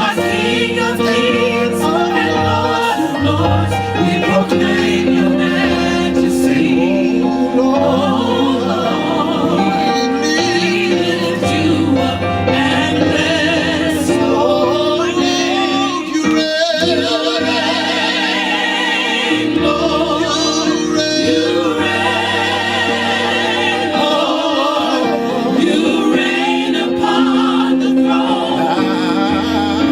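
Gospel choir singing over a steady bass accompaniment, with held chords. A lead voice with wide vibrato rises above the choir in the middle.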